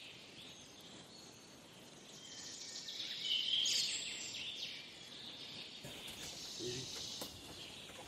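Faint natural ambience of birds calling and chirping, swelling about three seconds in and then easing off, over a light insect hiss.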